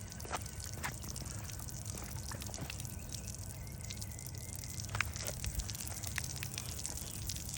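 Water from a fountain nozzle falling into its basin: a steady splashing patter of drops.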